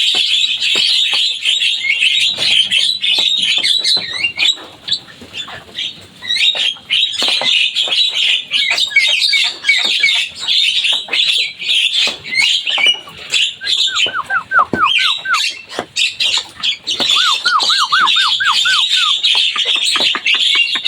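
Javan myna (jalak kebo) singing a busy, continuous chatter of squawks and quick high notes. In the latter half come two short runs of rapid, repeated, downward-sweeping whistles.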